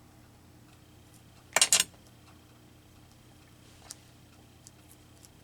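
A brief clatter of small hard objects knocking together about a second and a half in, then a few faint light taps.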